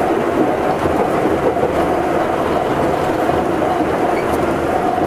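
Cabin running sound of an Astram Line 7000 series rubber-tyred guideway train at steady speed: a dense, even rumble of the tyres on the guideway with a steady hum running over it.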